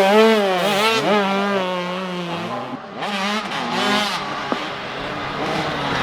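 Several 85cc two-stroke motocross bikes racing past, their engines revving up and down as the riders work the throttle and shift. The sound dips about three seconds in, then more bikes come through.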